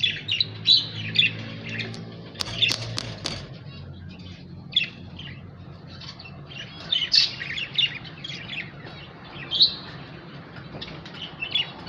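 Pet lovebirds chirping in bunches of short, high chirps, with a few sharp clicks about three seconds in and a steady low hum underneath.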